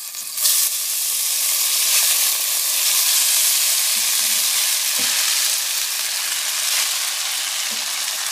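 Drained spaghetti hitting hot oil and garlic in a pot: a loud sizzle bursts up about half a second in and keeps on steadily as the pasta is pushed around, with a few faint knocks of the utensil against the pot.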